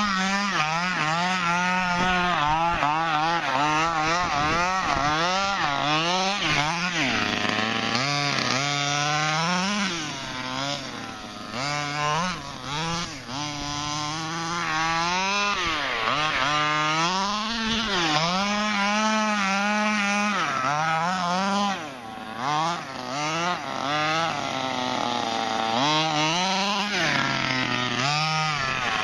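Two-stroke gas engine of an HPI Baja 5B 1/5-scale RC buggy with a cone air intake and dual exhaust, running hard with its revs rising and falling again and again as the throttle is worked. Its loudness dips briefly about ten to thirteen seconds in and again around twenty-two seconds.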